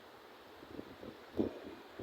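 Wind buffeting the microphone over a steady outdoor hiss, with a few short dull thumps; the strongest is about one and a half seconds in.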